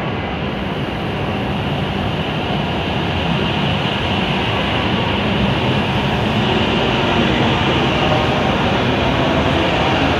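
W7-series Hokuriku Shinkansen trainset moving slowly along the platform, a steady running noise with a faint electric motor hum that grows slightly louder.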